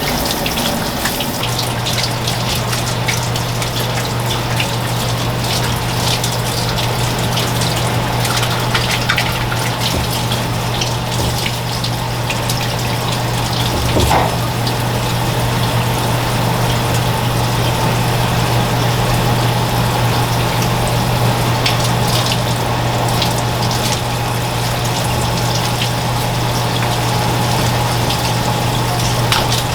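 Water running steadily, as from a kitchen tap, with scattered light clicks and knocks. A steady low hum comes in about a second and a half in and holds.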